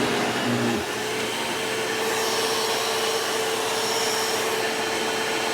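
Hoover WindTunnel 2 upright vacuum cleaner running steadily with a steady whine, its suction working and picking up dirt. The lower hum drops away a little under a second in.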